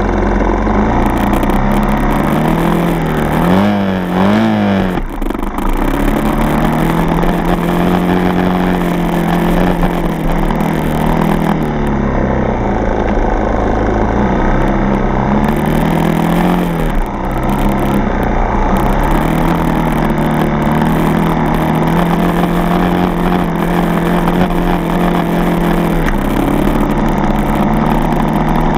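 Single-cylinder four-stroke dirt bike engine running while riding, its revs rising and falling with the throttle, with a quick double rev about four seconds in and a brief drop in revs about halfway through.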